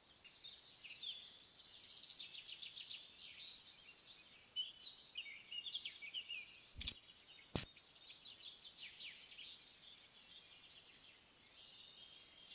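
Small songbirds chirping and trilling in quick high phrases. Two sharp clicks come a little under a second apart about midway.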